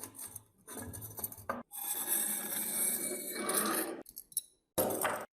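Metal clinking and scraping from hand work on the rusty parts of an old fan, heard in several short bursts that start and stop abruptly, the longest a steady scrape of about two seconds.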